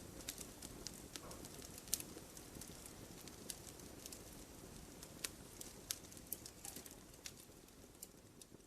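Burning firewood: irregular sharp crackles and pops from the logs over a low steady rush of the flames, the whole sound growing fainter near the end.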